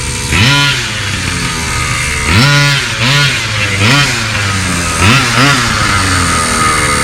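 1/5-scale RC monster truck's two-stroke gas engine idling and being blipped about six times, its pitch rising and dropping back with each rev.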